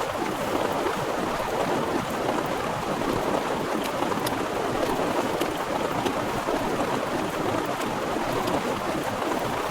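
Torrential rain pouring down steadily, a dense, unbroken hiss with scattered sharp ticks of individual drops striking close by.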